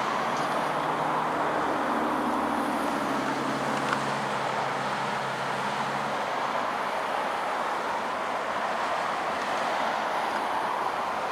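A train passing with a steady rolling rumble. A low engine hum under it fades out about six seconds in.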